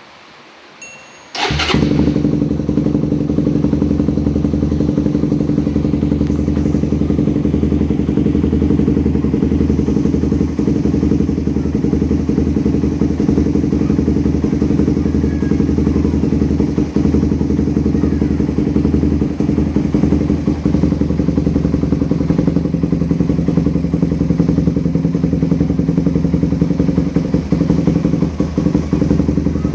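Suzuki Satria FU's 150 cc single-cylinder four-stroke engine starts about a second and a half in, then runs steadily at idle through a Lone Rider aftermarket exhaust with a 30 cm tri-oval muffler.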